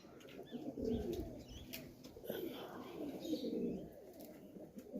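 Domestic pigeons cooing close by, low warbling coos one after another, with a few faint higher chirps among them.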